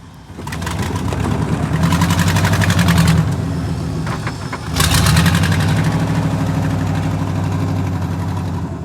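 A vehicle engine revving hard in two pushes: it builds up to full revs over the first few seconds, eases off around four seconds, then surges again at about five seconds and holds high.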